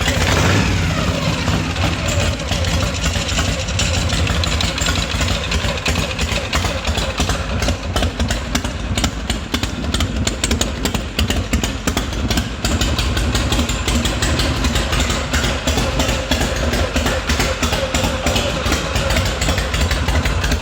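Harley-Davidson Evolution V-twin engine of a rigid chopper idling with a steady, lumpy beat, running after a cold start following more than three months of sitting.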